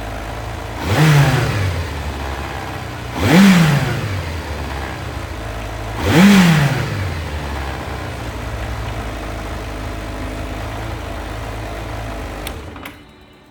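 Kawasaki Zephyr 750's air-cooled inline-four engine idling, blipped three times so that it revs up sharply and falls back to idle each time, then idling steadily until it stops near the end.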